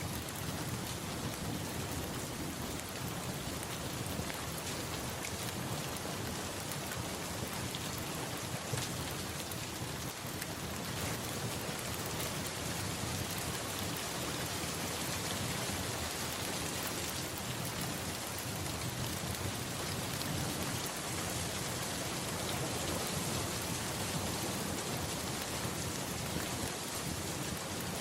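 Steady rain pattering down as an even hiss, with a low rumble of thunder underneath.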